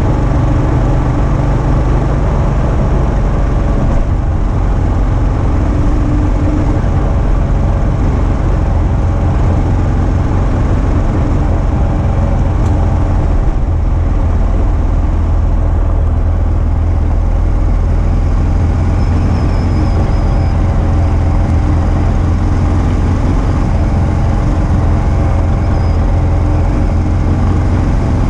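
Single-cylinder engine of a 2022 Kawasaki KLR650 dual-sport motorcycle running steadily while riding along a gravel road, its note shifting slightly about halfway through.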